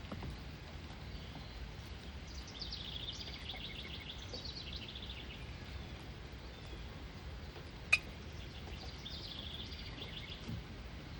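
A songbird singing two rapid trilled phrases, the first about two seconds in and the second near nine seconds, over steady low background noise. A single sharp click near eight seconds.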